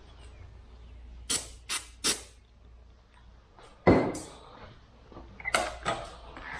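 Aerosol carb cleaner sprayed into the pit bike's carburettor intake in three short hissing bursts, then a thump and two more short bursts.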